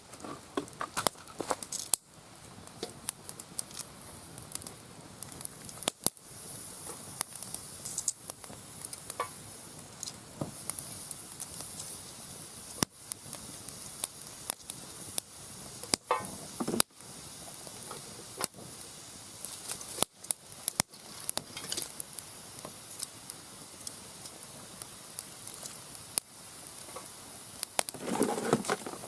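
Mixed broadleaf firewood burning in a round fire pit, crackling with frequent sharp pops over a steady hiss, with a brief louder rush near the end.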